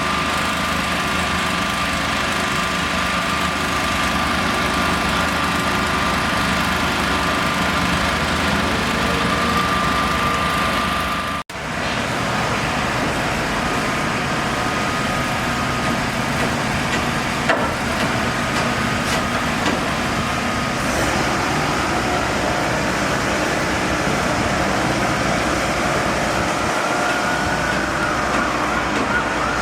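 Steady engine and traffic noise with a constant whine, cut off for an instant a little over a third of the way in. Near the end an emergency vehicle siren starts up, its pitch rising and falling.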